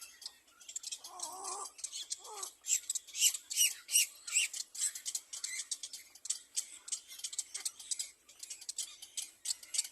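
Nestling birds cheeping rapidly, a thin run of many short high-pitched chirps. A lower, wavering call comes about a second in.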